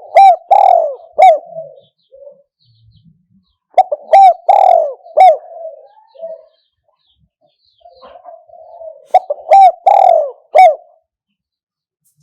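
Spotted dove cooing: three phrases of several short, quick coos, one phrase about every four seconds.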